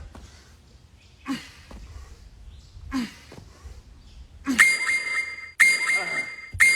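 A man's hard, voiced exhales, one with each jump squat, about every second and a half. Then three loud, steady-pitched beeps, one a second apart.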